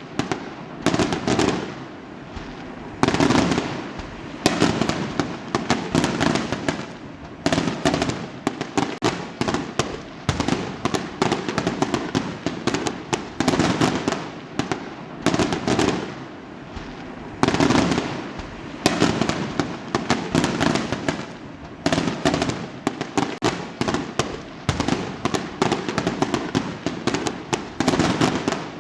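Fireworks exploding one after another, sharp bangs every second or so, each trailing off in crackle, with no let-up.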